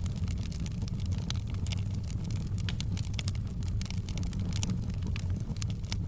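Wood fire burning in a fireplace: a steady low rumble of the flames with many small, irregular crackles and pops.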